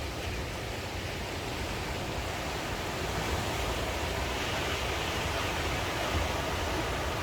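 Sea surf washing onto the shore as a steady rush of noise, swelling about three seconds in, with a low rumble underneath.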